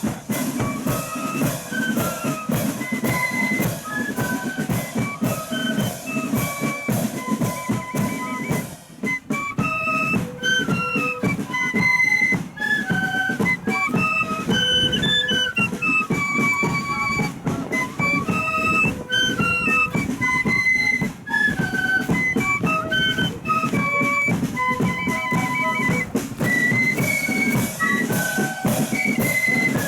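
Loyalist marching flute band playing a tune: flutes carry a stepping melody over steady bass and snare drumming. The drumming drops away for a moment about nine seconds in, then picks up again.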